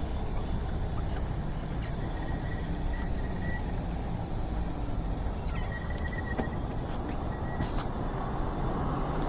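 Steady wind rush and tyre noise of an electric bike riding on wet pavement. Faint thin high-pitched whines come and go twice over it.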